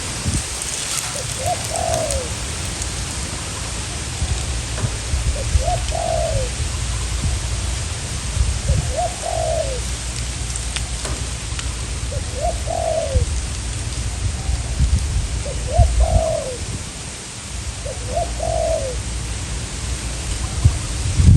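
Spotted dove cooing, six short phrases at an even pace of about one every three and a half seconds. Strong wind rumbles and buffets the microphone throughout.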